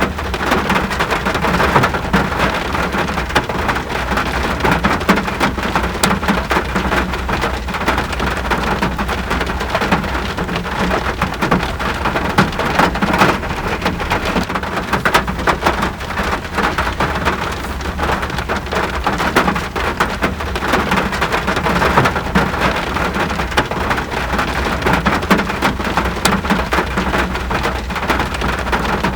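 Steady heavy rain: a dense, even hiss of countless drops striking close surfaces, with a steady low rumble underneath.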